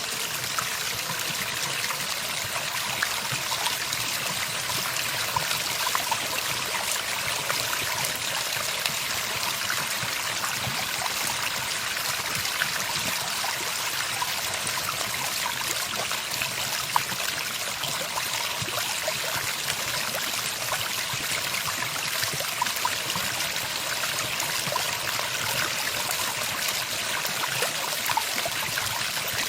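Running water trickling steadily, like a small stream, with no birdsong.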